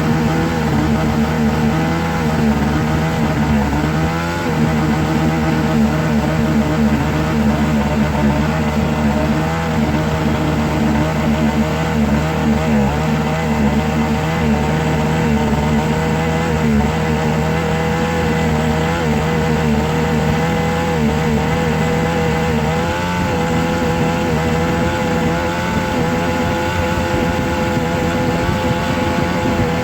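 A steady, continuous drone of several held tones whose upper pitches waver slowly.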